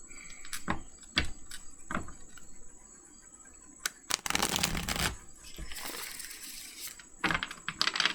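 A tarot deck being shuffled by hand: scattered sharp card snaps, and a dense rush of sliding cards about four seconds in.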